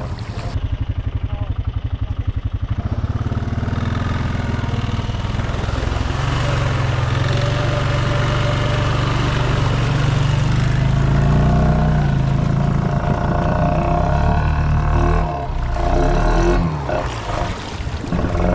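Snorkeled ATV engine running while submerged, throttle held open: rapid even firing pulses at first, then a steady low drone that swells briefly in the middle and grows uneven near the end.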